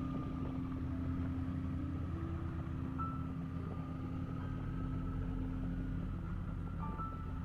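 Kawasaki Vulcan motorcycle engine running steadily while riding, a continuous low rumble.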